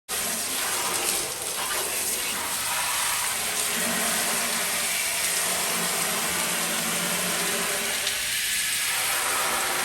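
Steady hiss of water spraying onto a vehicle's body during an exterior wash, with a faint machine hum underneath. It starts and cuts off abruptly.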